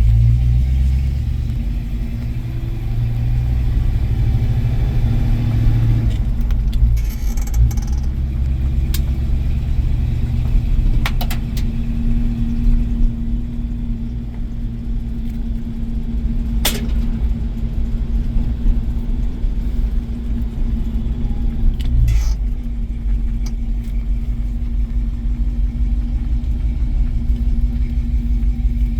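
1973 International Harvester Scout II engine running steadily with a low rumble, with a few short clicks over it.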